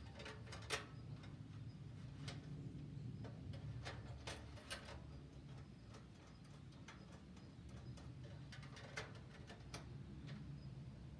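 Firewood burning in a wood stove, crackling with irregular sharp pops and snaps over a low steady rumble.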